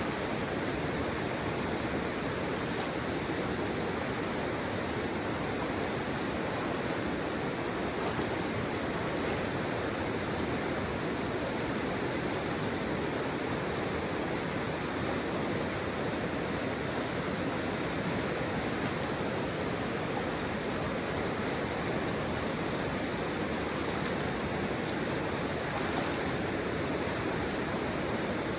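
Flowing river water blended with pink noise: a steady, even rushing that stays the same throughout.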